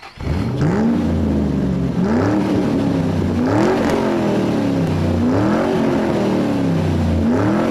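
A car engine revving up and down several times, its pitch rising and falling in repeated sweeps.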